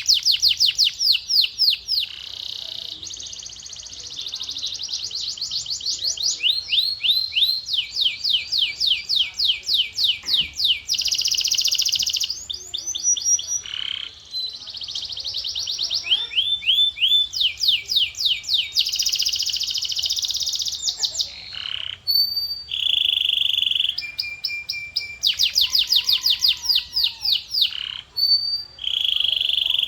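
Male domestic canary singing a continuous song: fast tours of rapidly repeated down-slurred whistled notes alternating with buzzy, rolling held phrases, all high-pitched, with short breaks between phrases.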